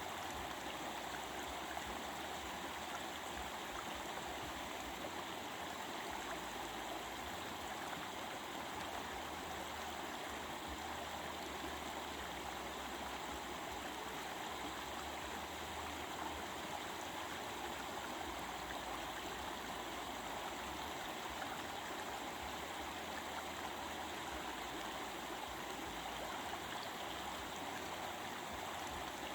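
Stream water running steadily over rocks, a continuous babbling rush with no breaks.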